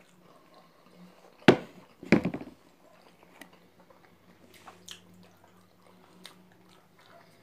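A person chewing food with the mouth, faint small clicks and smacks, broken by a sharp knock about a second and a half in and a short clatter just after. A steady low hum sits underneath.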